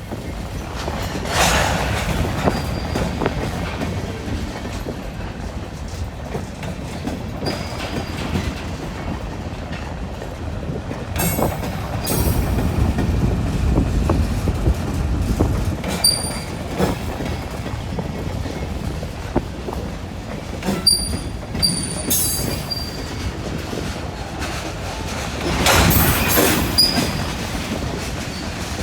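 Freight cars of a long BNSF freight train rolling past: a steady rumble of steel wheels on rail, with clanks now and then and short high-pitched wheel squeals several times.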